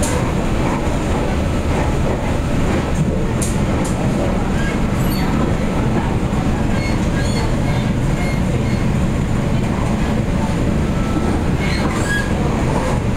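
Cabin noise inside an MTR Tung Chung Line K-Train car while the train runs: a steady, loud rumble of wheels on rail and running gear, with a few faint clicks.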